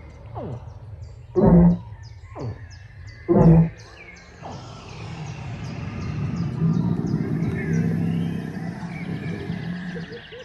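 Recorded dinosaur calls played from a life-size dinosaur model: two short, loud calls about two seconds apart, then a long roar that swells and fades over about five seconds. Birds chirp throughout.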